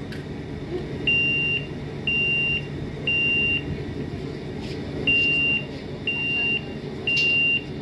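Electronic alarm beeping: a high steady tone sounding three times, about a second apart, then a short pause and three more, over a low steady rumble.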